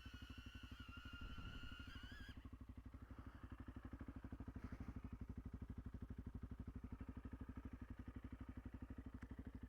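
Honda CRF300L's single-cylinder engine idling, a steady low pulse of about a dozen beats a second. A high wavering whine stops abruptly about two seconds in.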